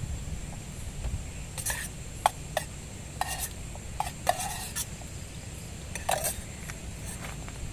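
A utensil scraping and clinking in camp cookware, in short separate strokes every second or so, over a steady low rumble.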